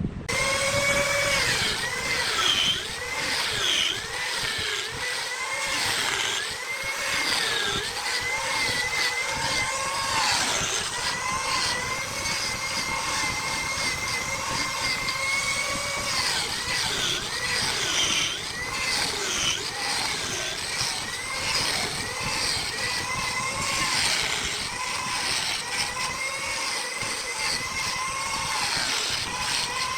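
Wood lathe with a turning tool cutting the spinning wood: a steady hiss of shavings with a high whine that wavers up and down in pitch as the cut changes.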